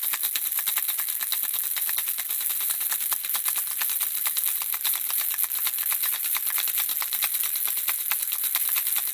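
Handheld baby rattle shaken steadily, the small beads inside making a continuous stream of rapid, bright clicks.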